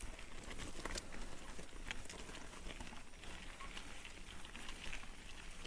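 Mountain bike rolling over a rough, rocky trail: tyres on loose stones with irregular clicks, knocks and rattles from the bike.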